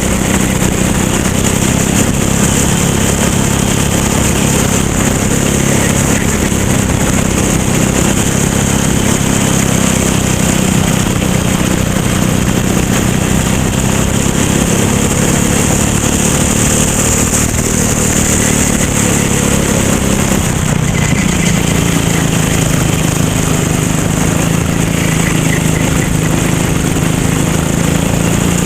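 Racing kart engine running hard and continuously. Its pitch drops briefly about two-thirds of the way through as it slows, then climbs again as it accelerates.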